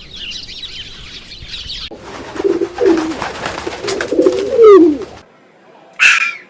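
Animal calls in sequence: high-pitched chirping for about two seconds, then louder low calls with falling glides for about three seconds, and one short sharp call near the end.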